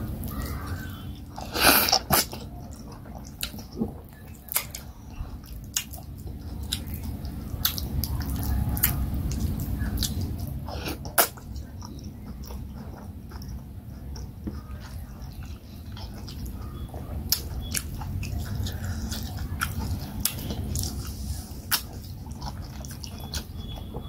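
Close-up chewing and wet mouth sounds of a person eating oat fufu and leafy vegetable soup by hand, with many sharp lip smacks and clicks; the loudest comes a little under two seconds in.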